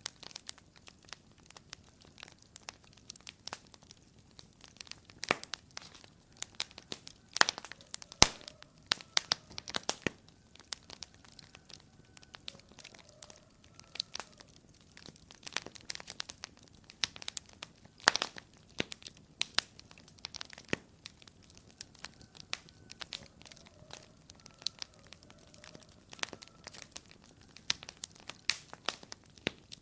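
Wood fire crackling in a fireplace: irregular sharp pops and snaps over a soft hiss, a few of them much louder than the rest.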